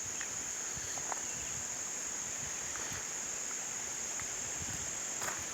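Insects buzzing in one steady, high, continuous drone, with a few faint short chirps and a low rumble underneath.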